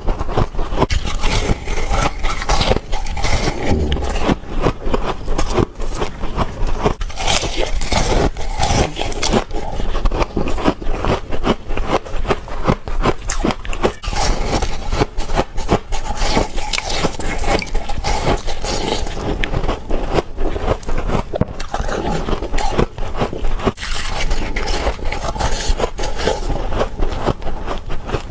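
Close-up biting and crunching of freezer frost: a dense, unbroken run of crisp crackles and scraping crunches.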